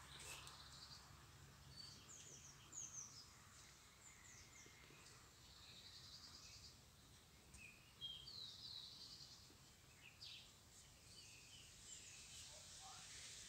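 Faint outdoor ambience with scattered short, high-pitched bird chirps, a few every second or two.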